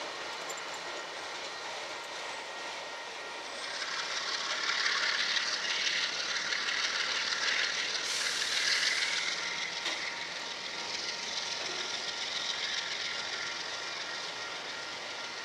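Enclosed autorack freight cars rolling past on the rails: a steady rolling rush and hiss of steel wheels on track. It grows louder from about four seconds in until about ten seconds, with a brief sharper, higher hiss near eight seconds.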